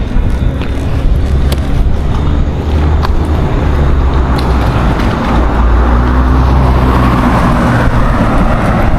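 A motor vehicle's engine running close by as a steady low hum. A haze of road noise swells in the second half.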